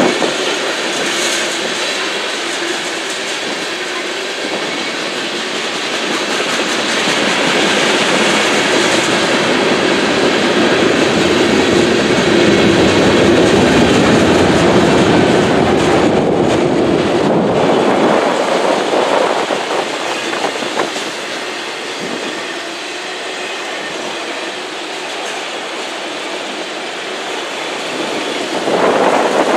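Freight cars of a long train rolling past: a steady rumble and clatter of steel wheels on the rails. It grows louder through the middle, eases for a while, then swells again near the end.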